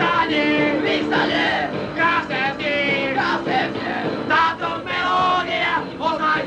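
Amateur punk band playing a song, with several male voices singing and chanting together over the instruments. The recording is lo-fi, made on a dictaphone.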